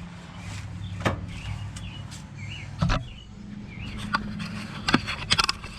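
Metal clicks and clunks from a 1993 Ford F-150's drive shaft being handled and slid along its splined slip yoke during removal: single knocks about one, three and four seconds in, then a quick run of several clicks near the end.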